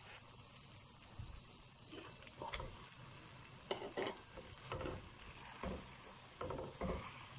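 Spiced masala frying with a faint steady sizzle in a nonstick wok as raw minced meat goes in, while a spatula scrapes and presses it in a dozen or so short, irregular strokes.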